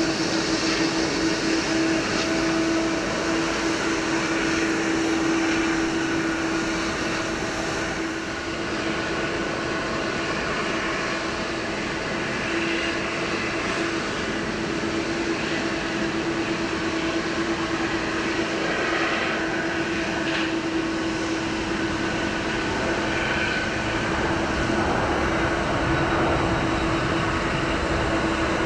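Jet airliner engines running steadily: an even rushing noise with a constant low hum tone, neither rising nor falling.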